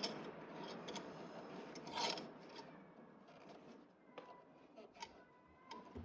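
Brake caliper slide pin being rubbed and scraped clean, loudest about two seconds in, then a few light metal clinks that ring briefly.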